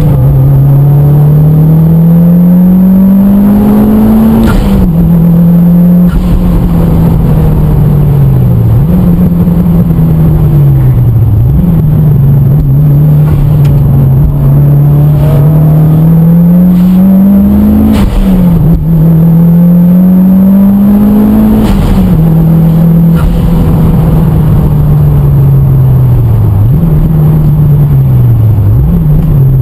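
Mitsubishi Lancer Evolution VIII's turbocharged four-cylinder engine heard loud from inside the car as it laps a race circuit. The pitch climbs steadily through each gear and drops sharply at the gear changes, three times, with several shorter dips and recoveries in between.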